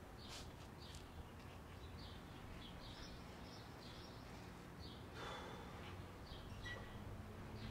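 Small birds chirping faintly and repeatedly in short, quick notes over a low background rumble, with a brief rush of noise about five seconds in.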